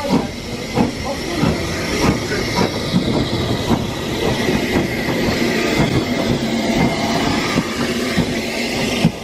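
Train running along the track, heard from an open carriage window: a steady rumble with the wheels clicking over rail joints in an even rhythm, about one and a half clicks a second.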